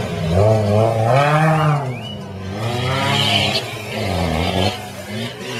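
Off-road 4x4 racing car engine revving hard, its pitch rising and falling several times as the throttle is worked through the corners.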